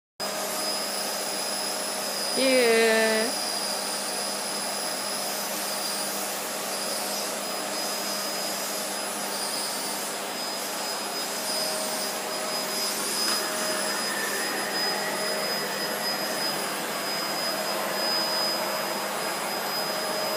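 Household vacuum cleaner running steadily, a noisy drone with a high whine. About two and a half seconds in, a short voice sounds over it.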